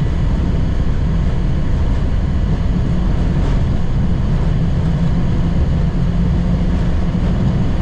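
Boeing 737-800 on its takeoff roll, heard from the cockpit: its CFM56-7B engines at takeoff thrust together with a loud, steady rumble from the wheels on the runway.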